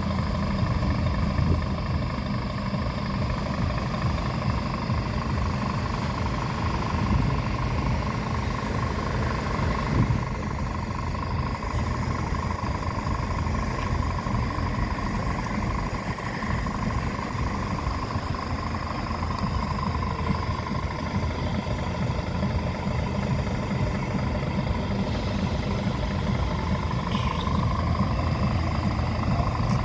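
Scania truck engine running steadily, a low even drone with a constant higher whine.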